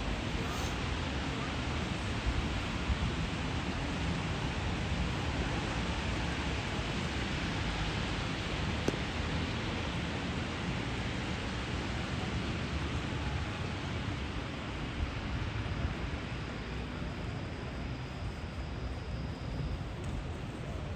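Steady rain falling on a city street, a continuous even hiss, over a low rumble.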